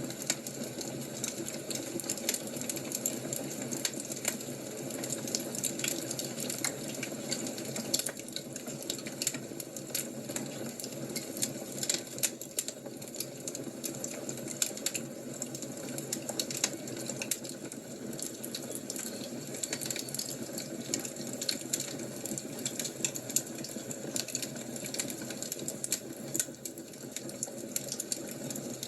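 Fire crackling: a steady hiss and rumble with dense, irregular small pops and snaps.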